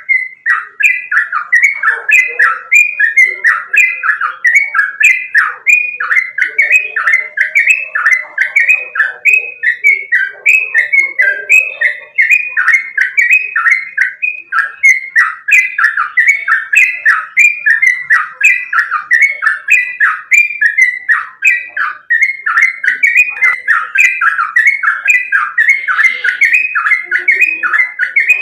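Yellow-vented bulbul (trucukan) singing a rapid, unbroken string of short falling notes, about two to three a second, without a pause.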